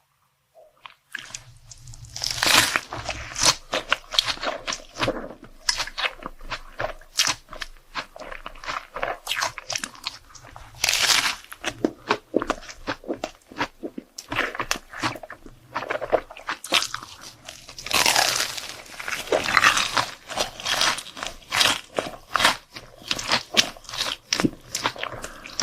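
Close-miked eating: crunchy bites and chewing of food, dense crackly crunches that start about a second in and come in louder bursts with each new bite.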